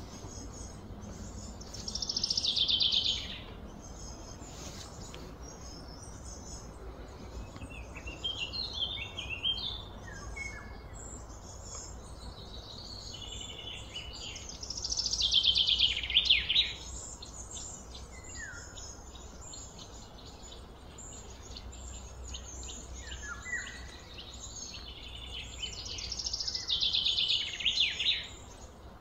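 Birds calling: one bird gives three loud calls, each about a second of quick notes falling in pitch, about twelve seconds apart, with softer chirps from other birds in between over a steady background hum.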